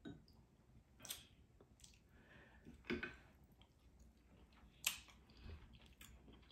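Faint chewing and mouth sounds from a person eating, with a few soft, sharp clicks about one, three and five seconds in.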